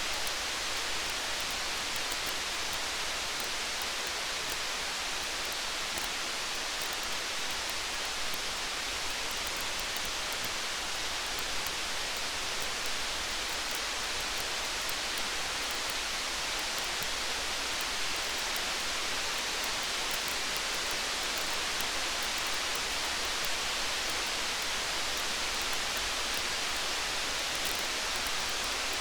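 Steady rain falling, an even hiss with faint scattered high ticks.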